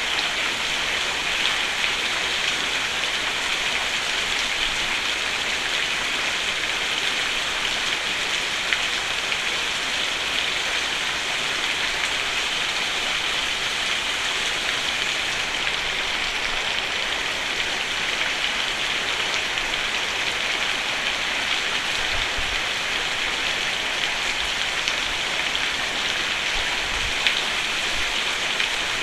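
Steady heavy rain drumming on a roof: a dense, even patter with the odd louder drop standing out now and then.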